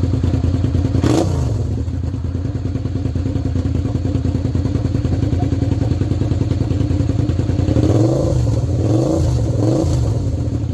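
Suzuki SV650's V-twin engine running through a straight pipe with the muffler deleted, idling with an even pulsing beat. The throttle is blipped once about a second in, and about three more short revs come near the end.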